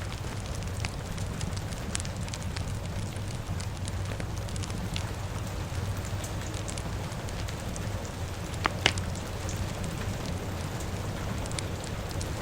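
Fire crackling with scattered small pops over a steady low rush of rain. A sharper, louder pop comes about nine seconds in.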